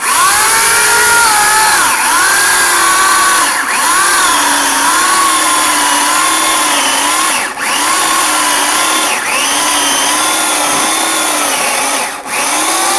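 Harbor Freight 14-inch corded electric chainsaw cutting through a large-diameter log. The motor whine sags and recovers over and over as the chain loads up in the wood, with a few brief dips along the way.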